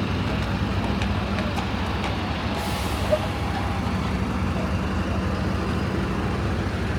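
Heavy road vehicle engine running steadily in traffic, with a short air-brake hiss about two and a half seconds in.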